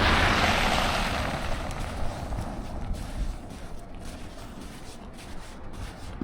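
A vehicle passing on a snowy street: a hiss of tyres on slush that fades away over the first two seconds or so, leaving quieter steady street noise.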